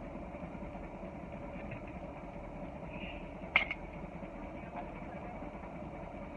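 Car engine idling steadily, with one sharp click about three and a half seconds in.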